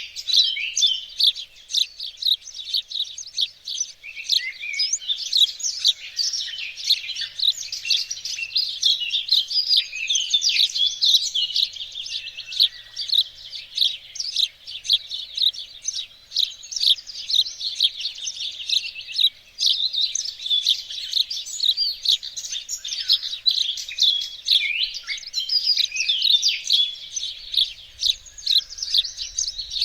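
Several songbirds singing and chirping at once in a dense, unbroken chorus of high, quick notes and trills.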